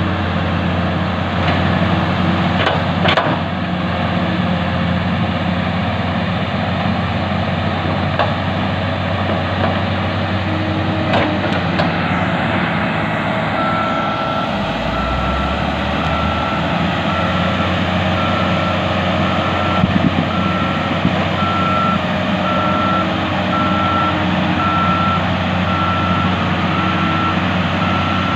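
Heavy diesel engines of a hydraulic excavator and a crawler bulldozer running steadily, with a few faint clanks. About halfway through, a reversing alarm starts beeping at an even pace, a little over one beep a second.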